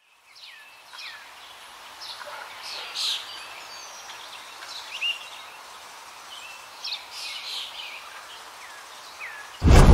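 Birds calling with short, quick falling chirps, one every second or so, over a steady outdoor hiss. Just before the end, a sudden loud burst cuts in and drowns them out.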